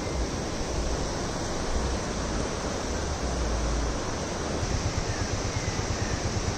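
Shallow river flowing over a rocky bed: a steady rushing of water, with a low rumble underneath that turns choppy about four and a half seconds in.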